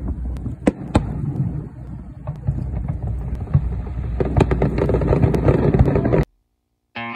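Fireworks bursting, sharp bangs and crackles, densest about four to six seconds in, over a steady low rumble. The sound cuts off suddenly about six seconds in, and electric guitar music starts near the end.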